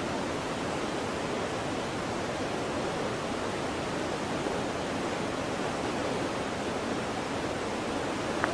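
Waterfall: water pouring and splashing in a steady, even rush. A single brief click sounds near the end.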